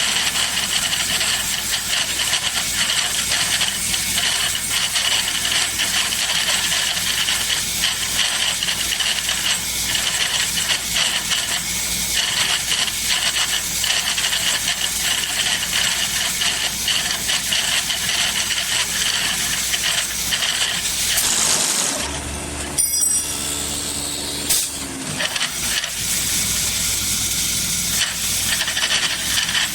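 Automatic CNC wood lathe cutting a spinning wooden handle, a steady loud hiss of the tool shaving the wood. About two-thirds of the way through, the hiss drops for about three seconds and a steady machine hum is heard before the cutting resumes.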